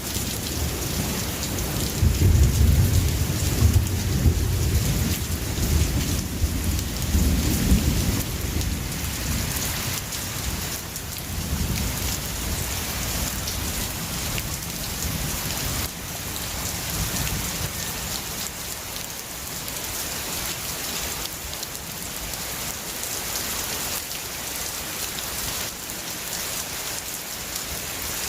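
Steady heavy rain with thunder: a deep rolling rumble swells about two seconds in and fades after several seconds, then a weaker roll follows, leaving the rain alone in the second half.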